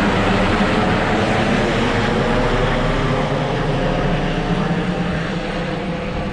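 Aircraft engine running steadily at cruise power, heard from inside the cabin, a loud constant drone that eases off slightly near the end.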